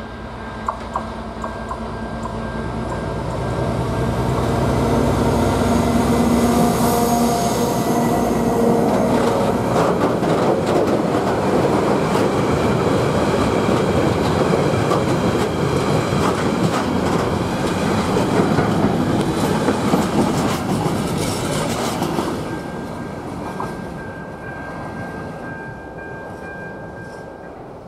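Diesel locomotive hauling a freight train past close by: its engine drone in the first several seconds, then the rattling clatter of the open freight wagons and container wagons over the rails, fading over the last few seconds.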